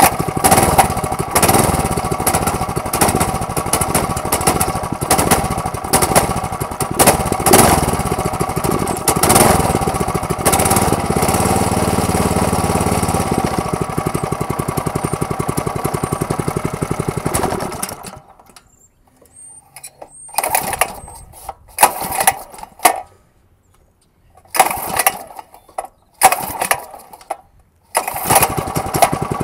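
Small 5 hp single-cylinder Kawasaki mini-bike engine running on choke during a cold start. About two-thirds of the way through it cuts out; a few short bursts follow, and near the end it catches and runs steadily again.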